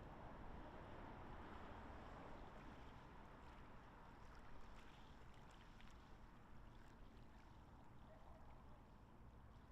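Near silence: faint lake-shore water ambience, a low even wash with a few soft ticks.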